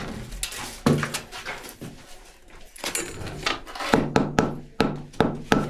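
Sharp knocks and thuds from building work, irregularly spaced, with a quick run of several strikes in the second half.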